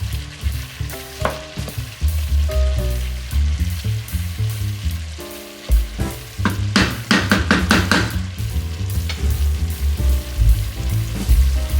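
Food sizzling as it sautés in a frying pan. It is stirred with a utensil, and a quick run of scraping clicks against the pan comes about two thirds of the way in.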